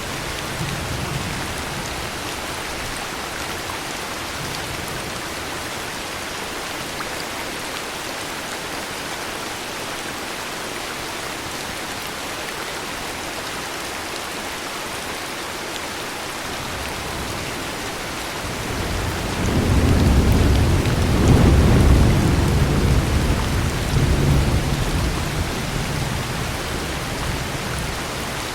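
Heavy rain falling steadily, with a long low roll of thunder that builds about two-thirds of the way through, peaks for a few seconds, then dies away.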